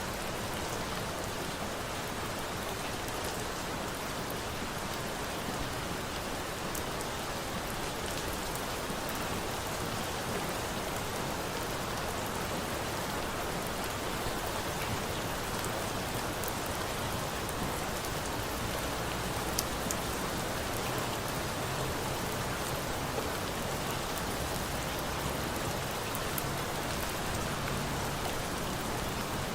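Steady rain falling, a dense even hiss, with a few faint sharp crackles from a bonfire.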